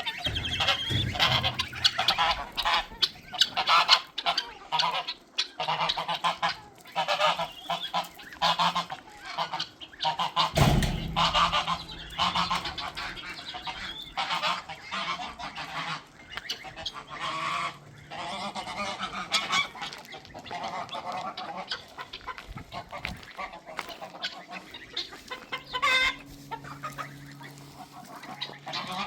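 Flock of domestic geese honking continuously, many calls overlapping, with a single thump about ten seconds in.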